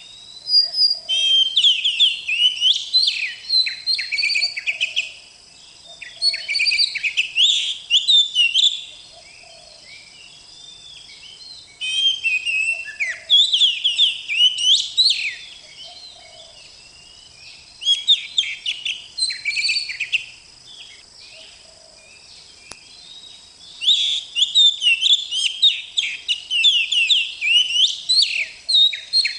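Oriental magpie-robin (kacer) singing in repeated bursts of rapid, varied whistles and chirps. Each phrase lasts a few seconds, with short pauses between them.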